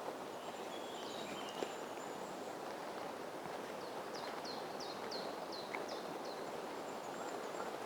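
A small songbird singing a short run of about seven quick, falling high notes a few seconds in, over a steady quiet woodland hiss.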